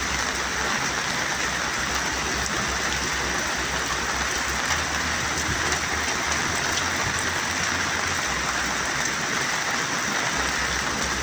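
Steady rain falling, an even hiss without a break, with a low rumble underneath.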